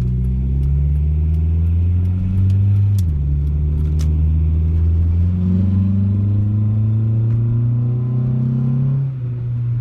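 1996 Acura Integra's four-cylinder engine and exhaust pulling the car along: the pitch climbs, drops sharply about three seconds in, climbs again, then eases off near the end. No exhaust rattle against the heat shield is heard; the exhaust has just been re-mounted to the frame to cure it.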